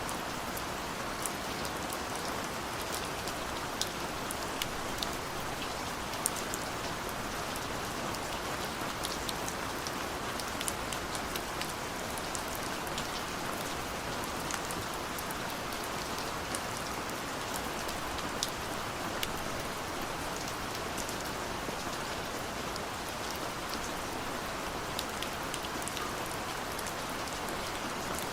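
Steady rain falling, an even hiss dotted with sharp ticks of individual drops striking a surface.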